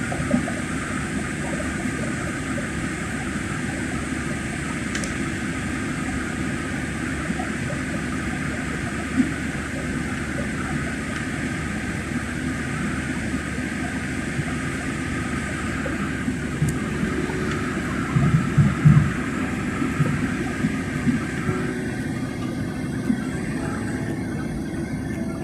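Steady airliner cabin noise, the even rush of the jet engines and airflow, with a few brief knocks about eighteen seconds in.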